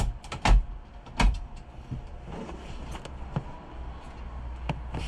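Hard plastic knocks and clicks as a new fuel pump assembly is pushed down and twisted into the locking grooves of the fuel tank: two loud knocks in the first second or so, then a few lighter clicks.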